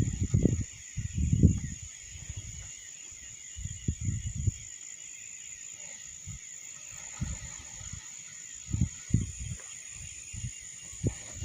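Insects chirring in a steady high trill, with irregular gusts of strong wind buffeting in low rumbling bursts, heaviest in the first couple of seconds and again near the end.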